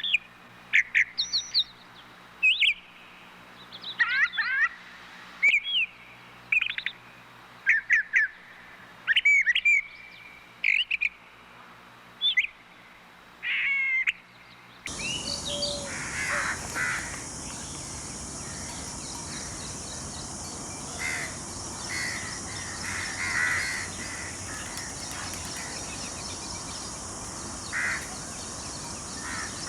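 Bird calls from two different recordings: first a run of short, sharp calls and whistles with gaps between them, then, about halfway through, a cut to a hissier recording where scattered calls sound over a steady high hiss.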